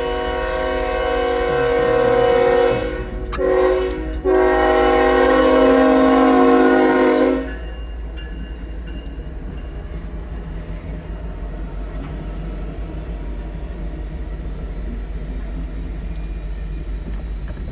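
Freight locomotive air horn blowing a long blast, a short one, and a final long blast that cuts off about seven seconds in. After it, the slow-moving train runs on with a steady low rumble.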